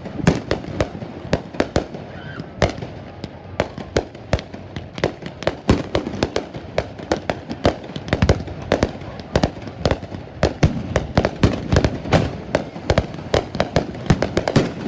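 Fireworks going off in rapid succession: a dense run of sharp bangs and cracks, several a second, over low booming.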